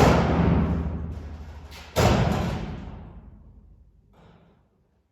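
Two heavy thuds about two seconds apart, each ringing out and fading slowly, with a faint short knock near the end.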